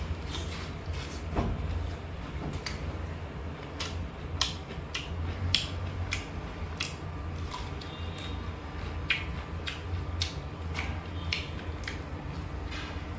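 Close-up mukbang eating sounds: chewing and wet mouth smacking as sharp clicks about once or twice a second, with fingers working rice and food on a plate, over a steady low hum.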